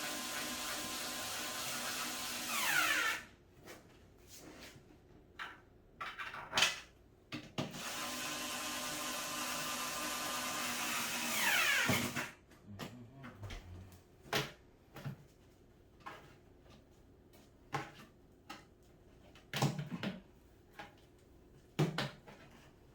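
Electric drill-driver running in two steady runs of about four seconds each, driving screws into cat tower parts; each run ends with a quick sweep in pitch as it stops. Between and after the runs, light clicks and knocks of parts being handled.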